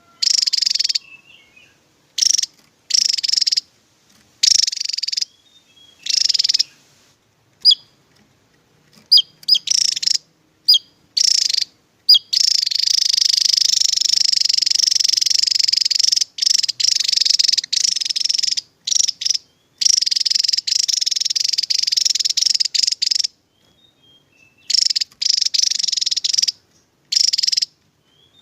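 Javan tesia singing: repeated bursts of high, rapid song, each lasting from under a second to about two seconds, with one unbroken run of about ten seconds in the middle and a few short rising chirps between bursts.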